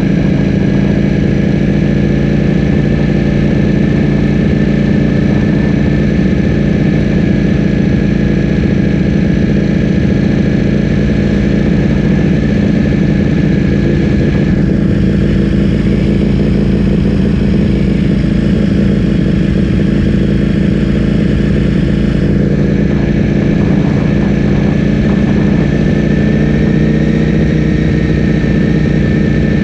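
Ducati Streetfighter V4S's 1103 cc V4 engine, breathing through an Akrapovic full-system exhaust, running at a steady engine speed without revving.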